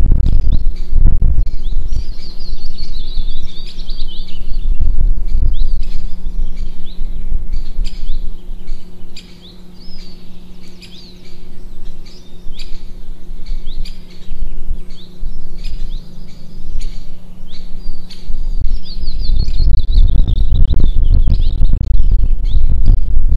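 Small birds chirping and twittering again and again, over a loud low rumble. A steady low hum runs through most of it, and there are occasional clicks.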